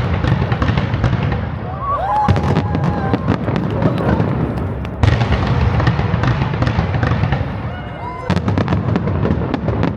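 Aerial fireworks display: dense crackling bursts and booms over a continuous rumble, with sudden louder volleys about five seconds in and again about eight seconds in.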